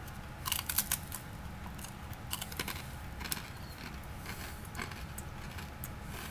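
A person biting and chewing a crunchy puffed-rice cracker: a quick run of crisp crunches about half a second in, then scattered single crunches as it is chewed.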